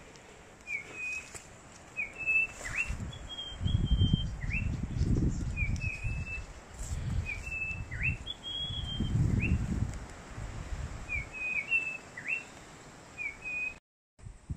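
A bird calling over and over: short high chirps, often in quick pairs, about once a second. Low rumbling bumps sit underneath, and the sound drops out briefly near the end.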